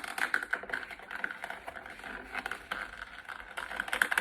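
Plastic action-figure packaging handled at close range, a dense run of small clicks and crackles as he tries to work the jetpack loose from its tray.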